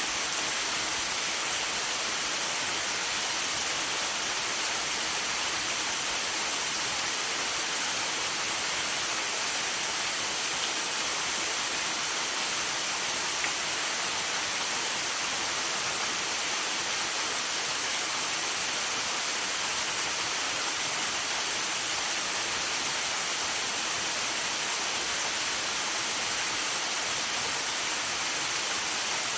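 Waterfall rushing steadily, with rain and sleet falling: an even, unbroken hiss weighted toward the high end.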